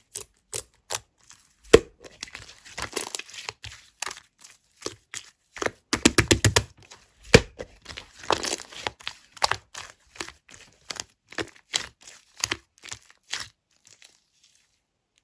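Clear slime worked by hand, making a run of sticky clicks, pops and crackles, with denser crackling stretches about two and six seconds in; it stops shortly before the end.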